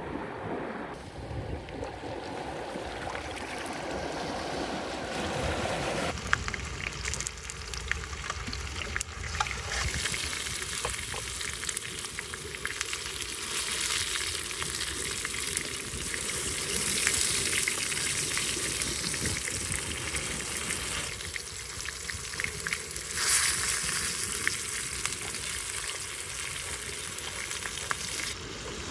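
Food frying and sizzling in a pan, a steady hiss with small crackles. It takes over about six seconds in from softer outdoor wind-and-water noise.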